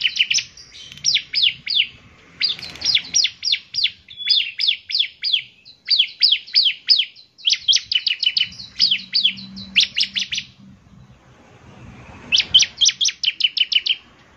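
Bar-winged prinia (ciblek) singing in phrases of sharp, quickly falling high notes, several notes a second, with a short pause near the end before the song starts again.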